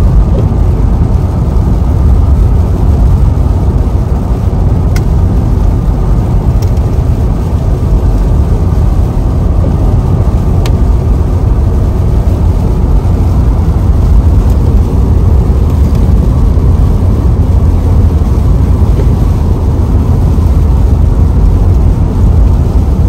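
Steady, loud low rumble of road and engine noise inside a moving car, with a couple of faint ticks.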